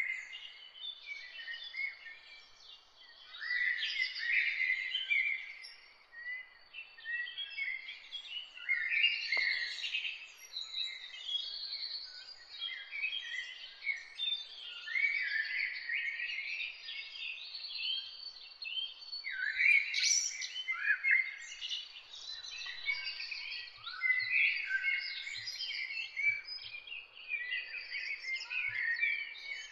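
Many small birds chirping and twittering, a dense, unbroken chorus of short high chirps.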